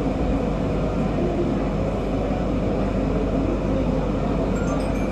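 MRT metro train running between stations, heard from inside the carriage: a steady, even rumble of wheels on rail and running gear.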